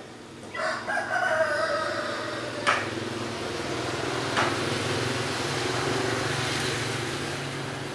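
A rooster crowing once, a drawn-out call of about two seconds. A passing vehicle follows, its noise swelling and then fading.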